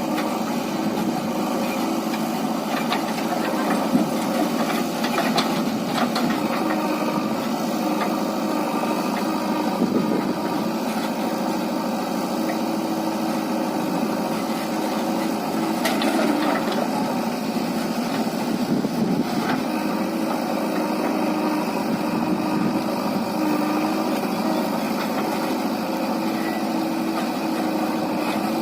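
Diesel engine of a JCB backhoe loader running steadily while it loads soil into a truck, with a sharp knock about four seconds in and a few fainter knocks later.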